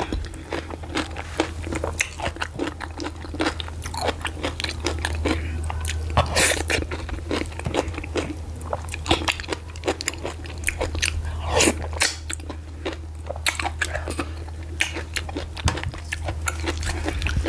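Close-miked eating of garri fufu and ogbono soup with meat: chewing and biting with many quick wet mouth clicks and smacks. A steady low hum runs underneath.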